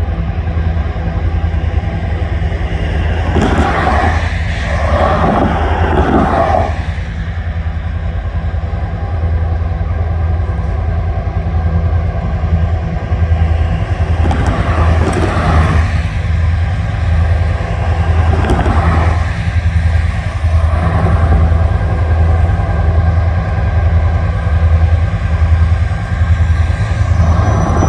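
A low, steady engine drone throughout, with road vehicles passing by several times, each swelling and fading over a couple of seconds.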